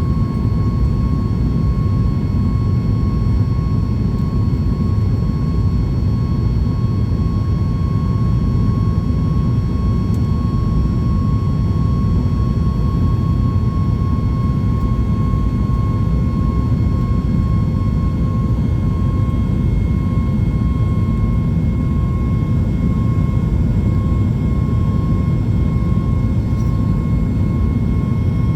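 Cabin noise of a Boeing 737 MAX 8 during the takeoff phase: a steady, loud roar from its CFM LEAP-1B turbofans with a constant whine on top, unchanging throughout.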